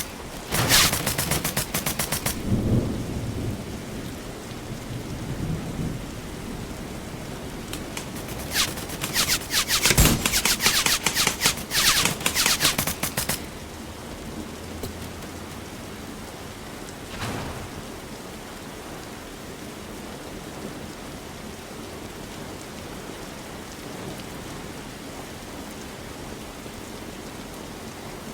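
Airsoft gun firing in rapid bursts of shots: a burst of about two seconds near the start and a longer one of about five seconds in the middle, over a steady background hiss that carries on alone for the second half.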